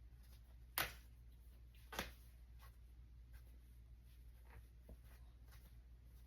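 Near silence over a steady low hum, broken by two sharp clicks about a second apart, followed by a few faint ticks.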